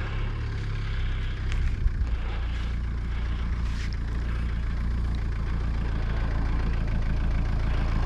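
Car engine running as the car pulls up close, a steady low rumble growing slowly louder.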